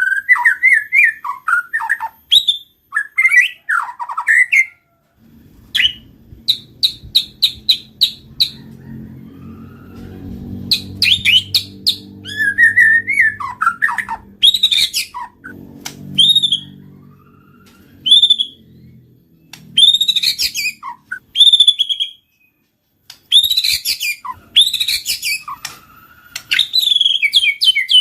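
White-rumped shama singing a varied, loud song of clear whistles, sweeping notes and fast chattering trills, broken by short pauses. A low rumble runs beneath it through the middle stretch.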